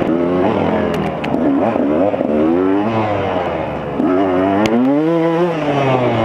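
KTM 200 XC-W's two-stroke single-cylinder engine running hard while being ridden, its pitch climbing and dropping repeatedly as the throttle opens and closes, with a long rev up and back down near the end. A few sharp knocks sound over it.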